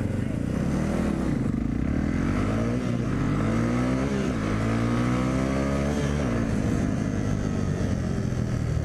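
Dirt bike engine accelerating hard from a stop at high revs, its pitch climbing and then dropping at each upshift, three times, then running more steadily for the last few seconds.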